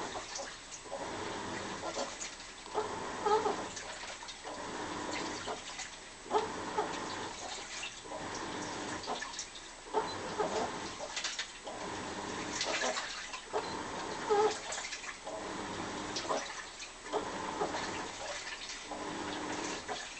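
Washing machine agitating during a wash: water swishes as the tub turns one way and then back, in strokes about every one and a half to two seconds with a short pause between. Each stroke carries squeaky, moan-like tones from the machine.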